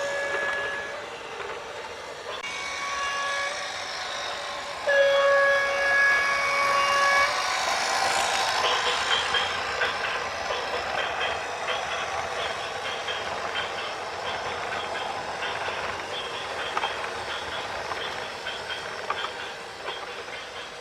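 A horn sounds three times, the third blast the longest and loudest. From about eight seconds in a continuous clattering rattle with quick, regular clicks follows.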